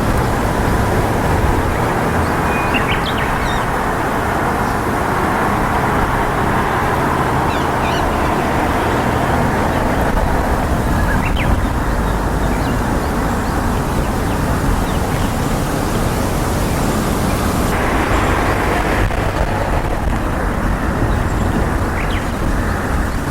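A steady, loud rushing noise with no break, with a few faint, short bird chirps here and there.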